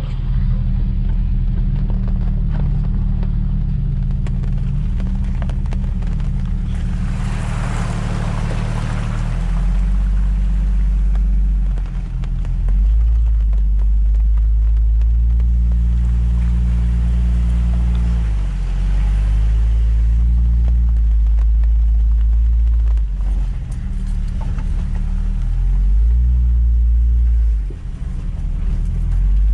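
Jeep Wrangler TJ engine running under load while driving off-road, its revs stepping up and down repeatedly. A rush of noise swells and fades for a few seconds about seven seconds in.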